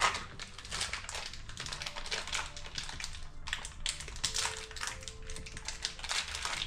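Quick, irregular light clicks and taps of metal parts being handled as new spindle bearings are fitted to a milling machine's quill.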